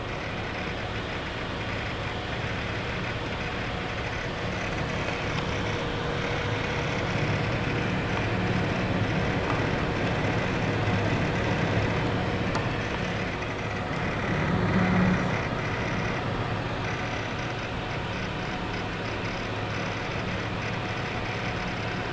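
Corsair H80 liquid cooler's pump block running with a rough, churning noise like a hard drive thrashing under full load, along with a hiss like a rubbing fan. The sound of a faulty pump in a brand-new unit. It swells briefly about two-thirds through.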